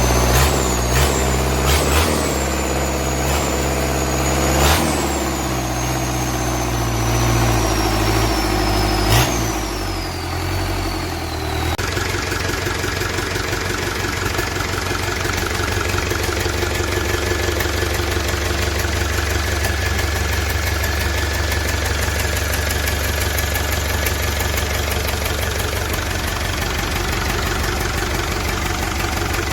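Hino Dutro 130HT truck's diesel engine running, with a few sharp knocks and a high whine that falls in pitch over the first ten seconds or so, then settling into a steady, even idle.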